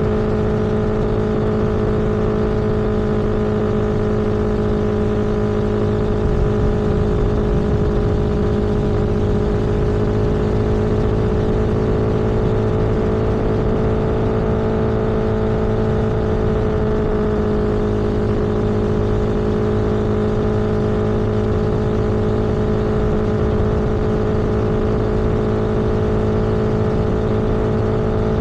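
Vehicle engine running at a steady cruising speed, one constant engine note with a dense rush of road and wind noise beneath it.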